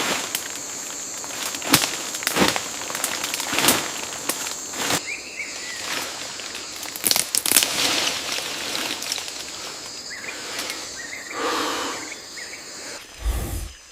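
Rainforest ambience: a steady high-pitched insect drone under a scatter of sharp cracks and rustling in the undergrowth, the loudest about two and four seconds in. The insect drone stops near the end, followed by a low thump.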